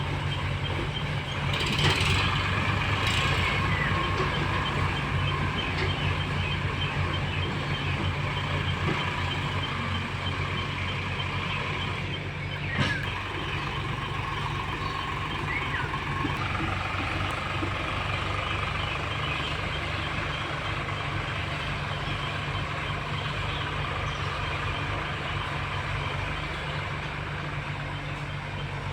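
Diesel tractor engine running steadily at a low idle, with a higher steady whine over it that changes pitch about two-thirds of the way through. One sharp knock about halfway through.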